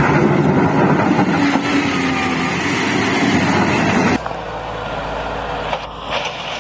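A heavy bulldozer engine running loud and rough, which cuts off abruptly about four seconds in and leaves a quieter steady rushing noise.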